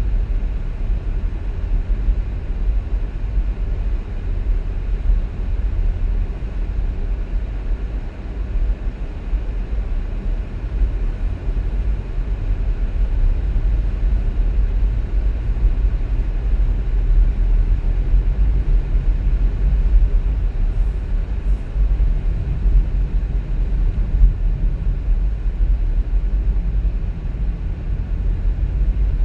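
Car driving: a steady low rumble of engine and tyre noise on the road.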